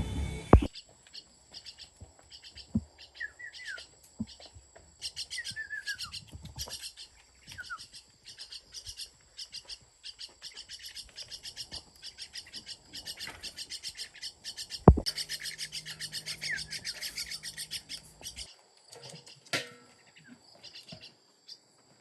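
Small birds chirping in long runs of rapid, high calls, with a few short falling whistles in the first several seconds. A sharp knock sounds at the start and again about fifteen seconds in.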